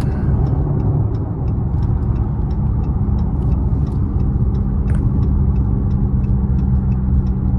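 Steady drone of a car's engine and tyres heard inside the cabin while driving, with a faint, regular ticking at about two to three ticks a second.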